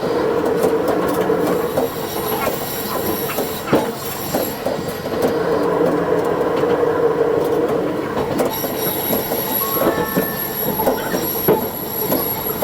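Diesel railcar running along the line, heard from the cab and sped up to double speed, with sharp clicks from the rails. A high, thin squeal of the wheels on the rails comes in during the second half.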